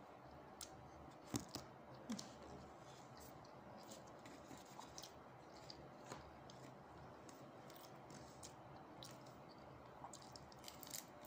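Faint mouth sounds of chewing soft bread, with scattered small clicks and crackles as the pastry is picked apart by hand. One click about a second and a half in is louder than the rest.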